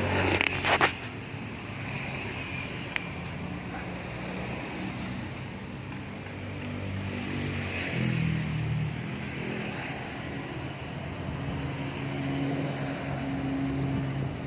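Toyota Avanza engine idling steadily, with a few sharp clicks in the first second and its note rising briefly about eight seconds in.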